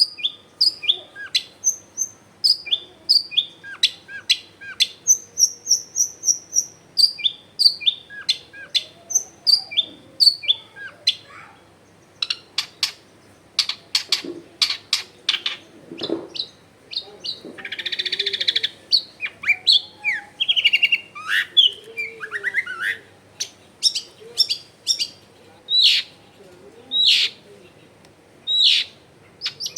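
Long-tailed shrike singing in full voice: a rapid, unbroken string of sharp chirps, short whistles and quick gliding notes, packed with mimicked calls. A harsh, rasping stretch comes about halfway through.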